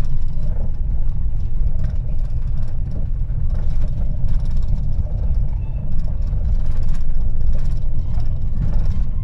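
Car driving, heard from inside the cabin: a steady low rumble of engine and road noise, with occasional light knocks.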